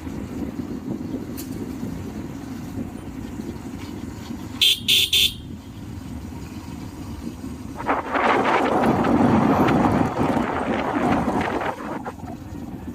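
A vehicle horn tooting three short times in quick succession over a steady low engine and road rumble; a louder rushing noise swells up about eight seconds in and fades again about four seconds later.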